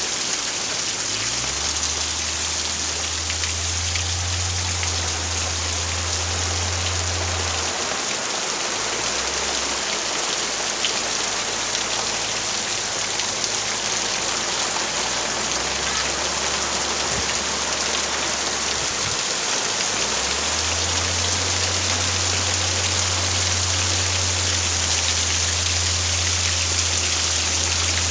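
Heavy rain pouring down steadily and splashing onto waterlogged ground, growing slightly louder in the last third.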